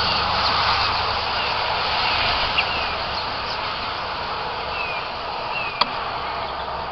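Small birds giving short, falling chirps now and then over a steady rushing background noise, with two sharp clicks, one about two and a half seconds in and one near the end.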